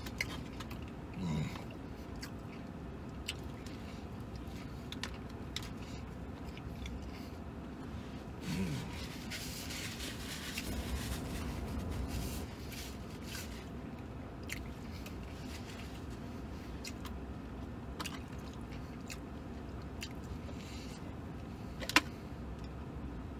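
A man chewing and biting into a stacked-meat sandwich, with small wet mouth clicks, inside a parked truck's cab. Partway through there is a brief paper napkin rustle, and near the end a single sharp click.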